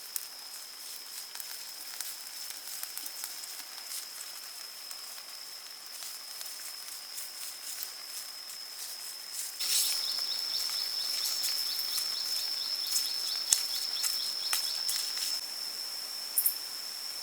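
Steady, high-pitched insect drone, with a second, pulsing insect call joining about ten seconds in and stopping about six seconds later. Scattered light clicks and taps sound over it.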